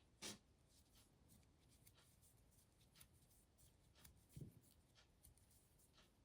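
Near silence with faint rubbing and light ticks of yarn drawn over a crochet hook as a row of chain stitches is worked, and two soft low thuds, one just after the start and one about four seconds in.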